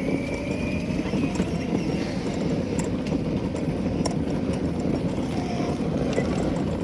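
Mini bike's small engine running steadily with a fast, rough chugging.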